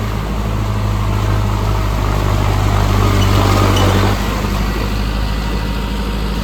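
Mahindra Arjun Novo tractor's diesel engine running steadily, with a strong low hum that drops away about four seconds in.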